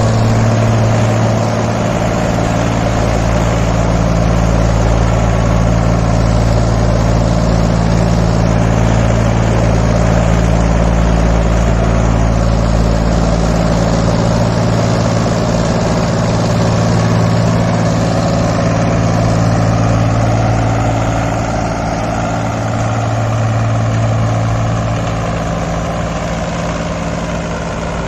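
Mahindra 275 XP Plus tractor's three-cylinder diesel engine running steadily under load, driving a rotavator, growing a little quieter near the end.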